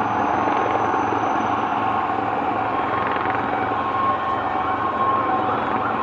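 Helicopter rotor beating steadily, about four beats a second, over a loud wash of street noise, with faint steady high tones that sound like distant sirens.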